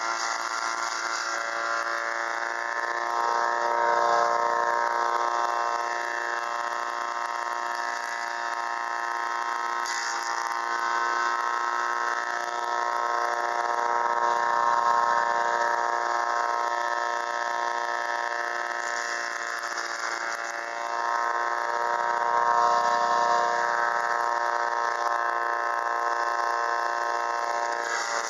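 Bolens 1050 garden tractor's engine running a front-mounted home-made wood chipper, its pitch sagging and recovering a few times as the chipper takes load.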